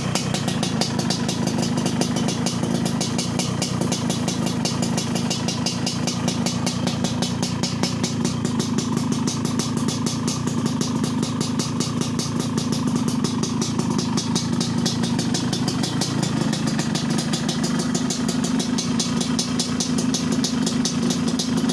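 Yamaha RX-King's two-stroke single-cylinder engine idling steadily through an under-belly 'kolong' aftermarket exhaust.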